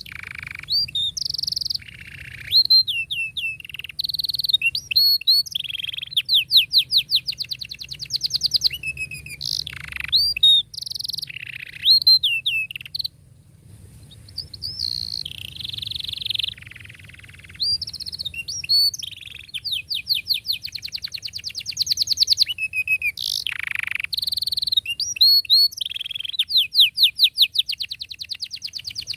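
Domestic canary singing a long, continuous song of fast trills, with rapid repeated notes alternating with sweeping whistled phrases and a short pause about halfway through.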